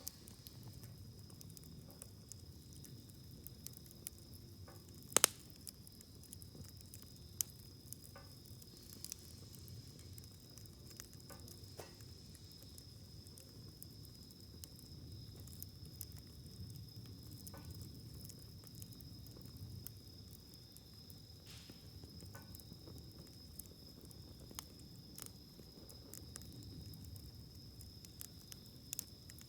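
Wood campfire burning in a portable fire stand: a low steady rumble of flames with soft crackling and scattered sharp pops, the loudest about five seconds in. A steady high-pitched whine runs underneath.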